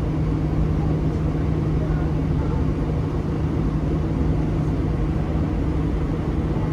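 Airbus A320 jet engines at takeoff power heard from inside the cabin: a steady, loud roar with a deep rumble and a constant hum.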